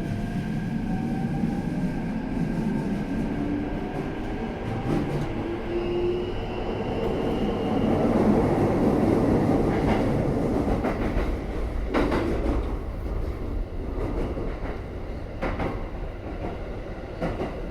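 Keikyu New 1000 series electric train heard from inside the car as it gets under way: traction motors whining in rising tones as it accelerates over a steady rolling rumble. Later come several sharp wheel clacks over rail joints.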